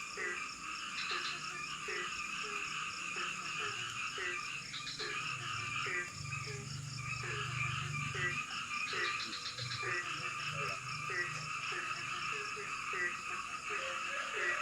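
Rainforest frog chorus: short falling croaks repeat about twice a second over a dense, steady high-pitched chorus.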